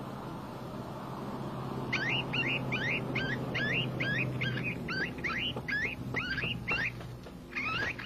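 A small bird calling in a rapid series of short, sharp chirps, about three a second, starting about two seconds in, over a faint low hum.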